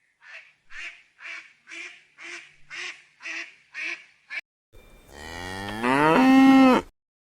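A bird gives about nine short, evenly spaced calls, roughly two a second. Then a cow moos once: a long, loud call that rises in pitch and then holds steady.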